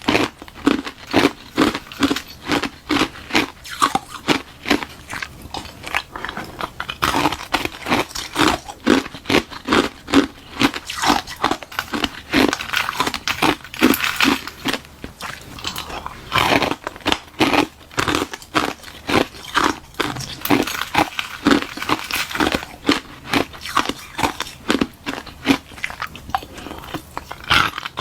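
Close-miked ice-eating: a hollow shell of balloon-frozen ice with frozen milk tea inside, bitten and chewed in a continuous run of sharp crunches, roughly two a second.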